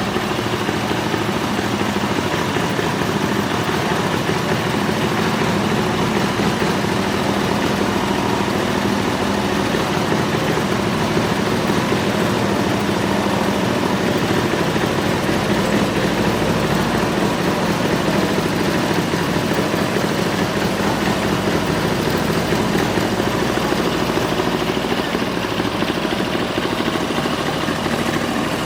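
Garden tractor engine idling steadily, a constant mechanical drone that holds the same pitch and level throughout.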